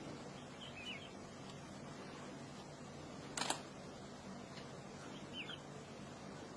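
Quiet open-air ambience over a faint low hum, with a bird chirping briefly twice, about a second in and again near the end, and a single sharp click about three and a half seconds in.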